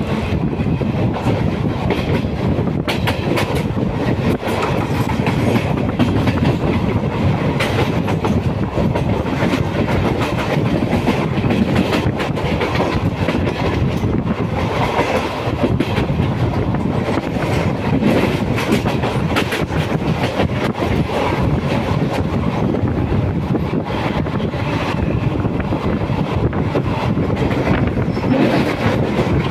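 Indian Railways passenger coach running steadily along the track, heard from its open door: a continuous rumble of wheels on rail with irregular clacks over the rail joints.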